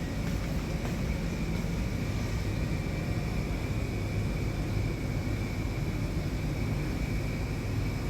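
Ship's engine-room machinery running steadily: a dense low drone with a thin, steady whine above it.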